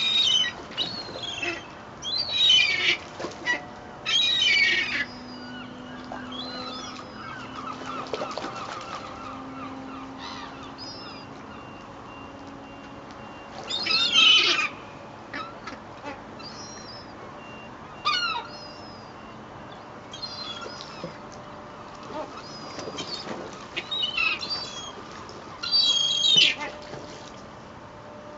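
Rowdy seagulls calling in harsh repeated cries, several birds at once in loud clusters with quieter calls in between, as they compete for thrown bread.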